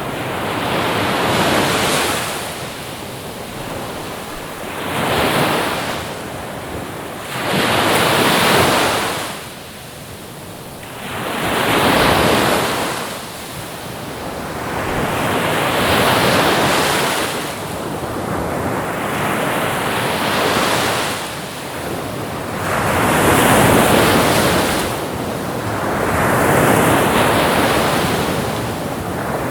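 Ocean waves breaking and washing in, one swell of surf about every three to four seconds.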